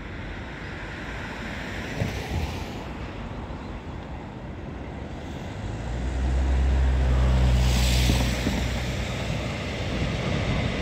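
Electric commuter train running along the tracks: a steady rumble with wind on the microphone, and about six seconds in a low, steady hum swells for a few seconds and fades.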